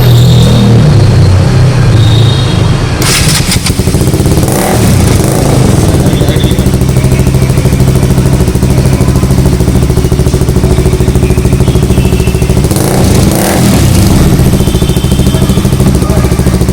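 KTM motorcycle fitted with an aftermarket exhaust, running loud with a fast, even pulsing note. Its engine is blipped a few seconds in and again about two-thirds of the way through.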